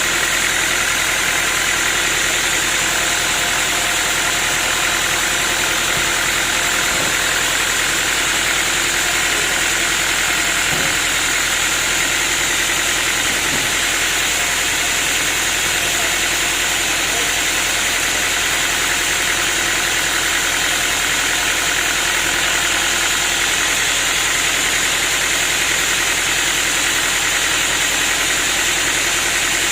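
Sawmill machinery running steadily, a continuous mechanical hum with a high whine that neither rises nor falls.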